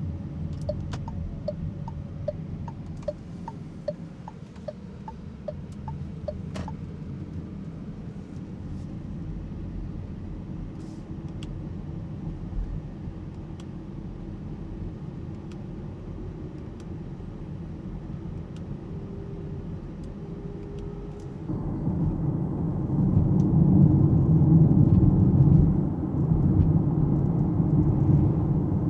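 Road and tyre rumble inside the cabin of an Alpine A390 electric car on the move, with a turn-signal indicator ticking about twice a second for the first six seconds or so. About three-quarters of the way through, the road rumble suddenly grows louder.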